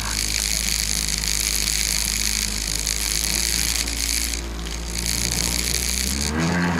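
Jet ski engine running steadily at low revs under a constant hiss, its pitch briefly rising and falling near the end.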